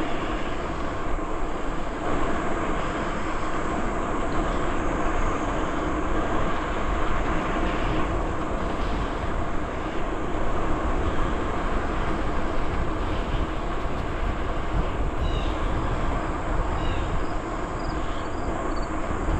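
Steady rushing noise of a bicycle ride: wind on the microphone over the sound of the bike rolling along the trail. A few short bird chirps come in near the end.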